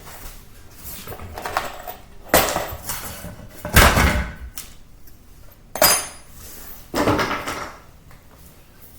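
Floor tiles being handled and set down: a handful of separate hard knocks and clattering scrapes, one with a short bright ring about two-thirds of the way through.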